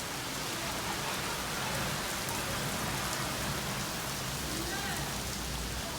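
Heavy rain pouring down in a downpour, a steady even hiss.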